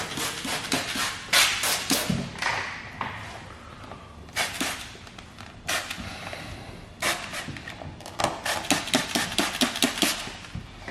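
Hand trigger spray bottle spritzing slip solution behind lifted paint protection film: a series of short hissing sprays, coming in quick succession near the end.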